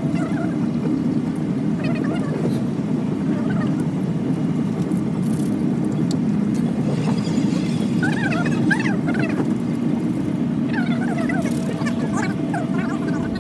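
Steady low rumble of a moving passenger train, heard from inside the coach. A few clusters of short, high chirps come about seven and eleven seconds in.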